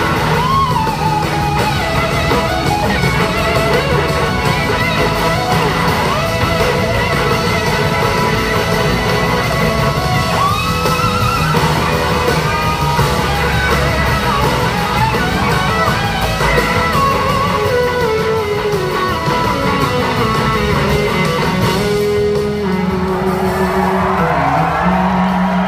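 Live rock band playing an instrumental passage led by electric slide guitar, its notes gliding up and down in pitch over bass and drums, heard in a large hall.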